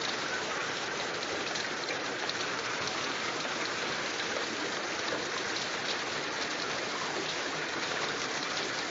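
Steady rain falling: an even hiss dotted with faint drop hits.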